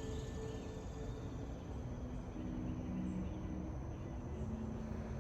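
Forest ambience: a steady low background noise with faint insect sounds and short soft tones that come and go.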